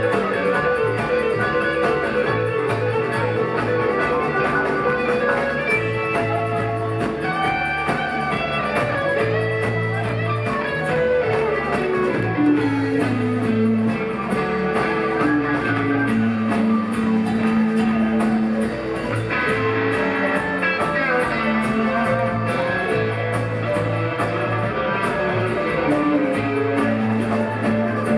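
Live rock band playing an instrumental jam: electric lead guitar over bass, keyboards and percussion, with a slow falling run of notes about halfway through.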